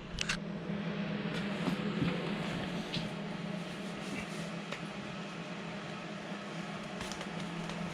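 Workshop room tone: a steady low hum with a few faint clicks and knocks.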